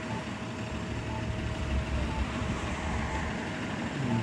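Passing road traffic rumbling steadily, swelling about two seconds in. A faint short beep repeats about once a second over it.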